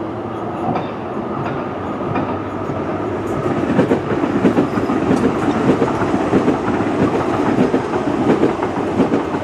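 Class 345 electric train arriving at the platform, its wheels running on the rails with a steady rumble that grows louder and more rattling from about four seconds in as it draws alongside.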